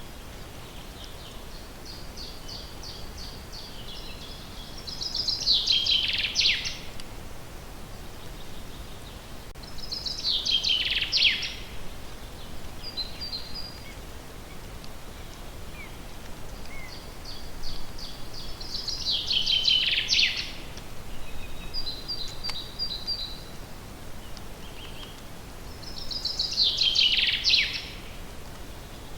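A songbird singing the same song phrase four times, several seconds apart: a quick run of high repeated notes that ends in a louder, falling flourish. A steady low background hiss lies beneath.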